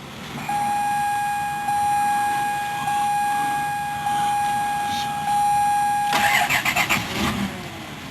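2003 Dodge Caravan being cranked on a cold morning. The starter whines steadily for about six seconds, then there is a short burst of rapid clatter, and the engine does not catch and run.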